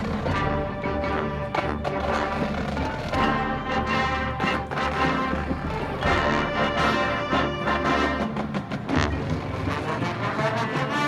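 Marching band playing: brass chords held over timpani and percussion hits.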